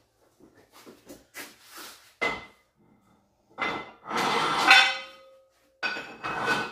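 Metal weight plates clanking and scraping as they are loaded onto a barbell. There is a sharp clank about two seconds in, another a second and a half later, then a longer metal scrape, and a final clank near the end, each leaving a short metallic ring.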